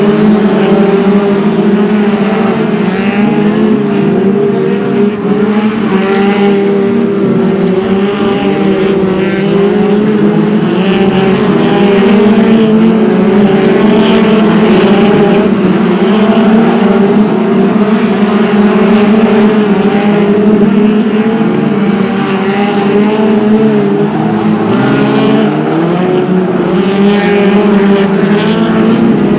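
A pack of BriSCA F2 stock car engines racing, loud throughout, several engines overlapping and rising and falling in pitch as the cars lap the oval.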